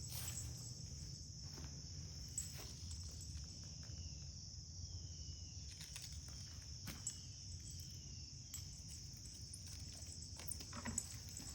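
Quiet ambience: a steady high-pitched insect-like drone over a low hum, with scattered light ticks and a few faint falling chirps in the middle.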